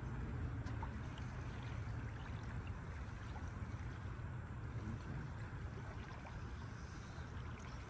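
Steady wind buffeting the microphone, a low rumble with a faint hiss over it.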